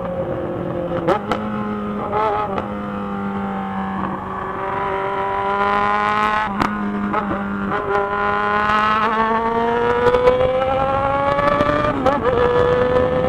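Yamaha XJ6 motorcycle's inline-four engine running under way. The pitch holds, then climbs slowly over several seconds. It drops and picks up again near the end.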